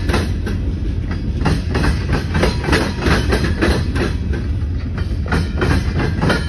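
Freight train of tank cars rolling past at close range: a steady low rumble, with the wheels clacking over rail joints in quick clustered groups as the trucks go by.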